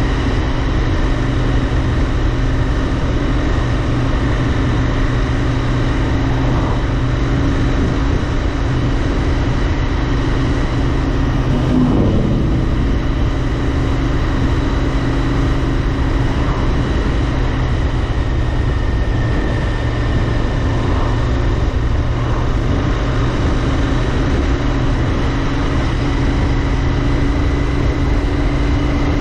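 Royal Enfield Interceptor 650's parallel-twin engine running at a steady speed while riding, under constant wind and road noise.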